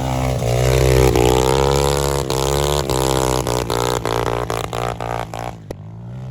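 Pit bike engine revving, its pitch rising and falling as the rider works the throttle, with a run of short sharp clicks or pops through the middle; the sound fades near the end.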